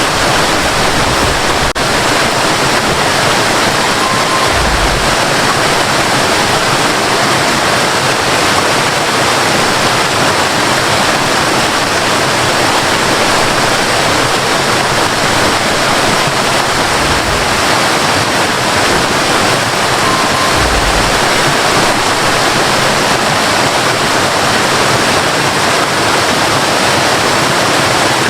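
Waterfall rushing and splashing in a steady, loud, even roar of falling water, with a few brief low rumbles.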